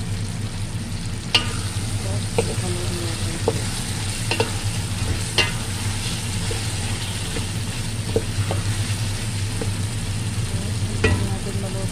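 Chicken pieces frying in tomato and onion sauce in a pot as they are stirred and turned, a utensil knocking sharply against the pot about nine times at irregular intervals. A steady low hum runs underneath.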